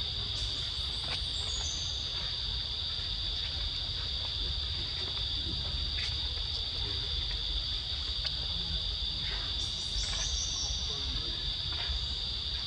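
Steady high-pitched drone of insects. Twice, a short run of high notes steps downward in pitch: about a second in and again near ten seconds.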